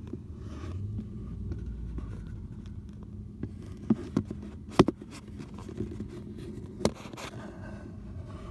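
Scattered sharp clicks and light knocks over a steady low rumble, the loudest click about halfway through.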